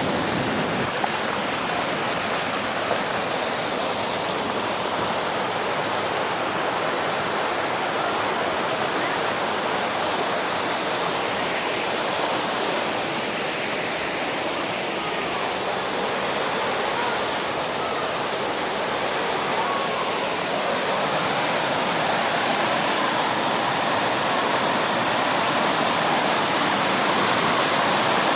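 Steady rush of falling and running water from a mountain creek or waterfall, growing a little louder in the last third.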